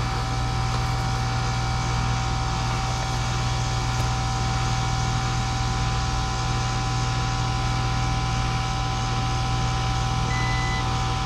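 Outdoor air-conditioner condensing unit running: a steady hum from the compressor and condenser fan. Near the end, a short high beep starts repeating about once a second.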